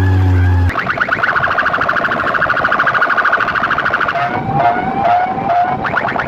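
Electronic siren tone: a steady low hum cuts off under a second in, giving way to a fast-repeating rising warble like a car alarm. About four seconds in, a lower sliding tone joins it.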